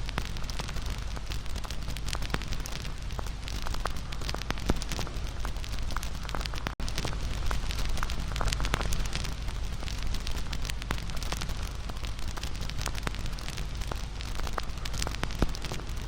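Bonfire burning, wood crackling with frequent irregular pops and snaps over a steady low rush of the flames.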